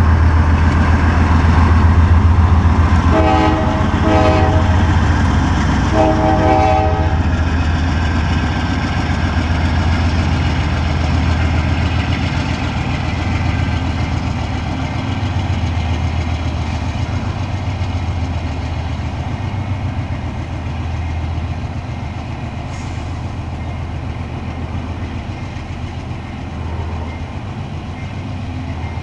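Norfolk Southern diesel-electric freight locomotives working under load as the intermodal train starts moving, a low engine drone, with a few short horn blasts between about three and seven seconds in. The engine drone slowly fades as the locomotives pull away, leaving the quieter rumble of the rolling train.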